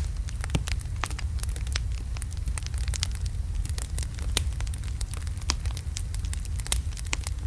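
Wood fire of large logs crackling, with sharp irregular pops of varied loudness over a steady low rumble of the flames.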